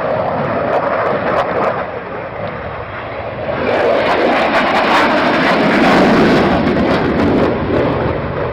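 Aircraft flying an air display, its engine noise loud and steady, swelling about halfway through and easing near the end.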